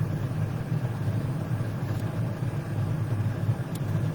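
A steady low rumble with no speech, even throughout, with a couple of faint ticks near the end.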